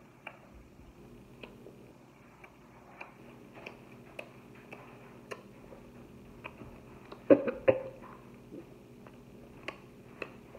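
A person eating pizza: chewing and small mouth clicks at irregular intervals, with two loud bites into the slice a bit past halfway.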